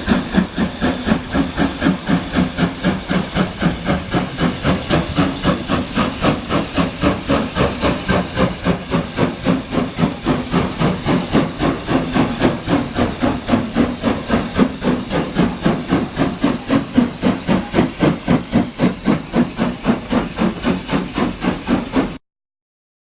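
Steam locomotive exhaust chuffing in a steady, even rhythm of about three to four beats a second, each beat a burst of hiss; it cuts off suddenly near the end.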